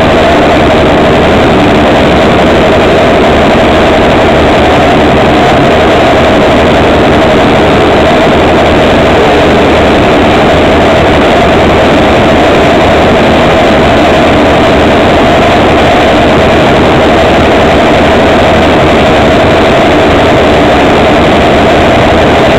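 Racing motorcycle engines idling together on a starting grid, heard very loud and steady from a camera on the tail of a Bimota YB4ei, with no revving.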